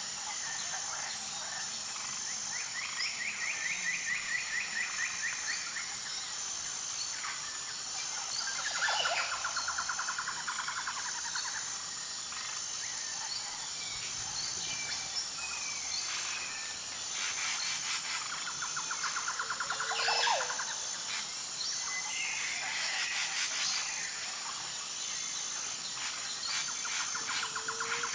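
Forest birds calling: several rapid trilled phrases and a whistle that falls steeply in pitch about twenty seconds in. Behind them runs a steady, high-pitched, pulsing insect chorus.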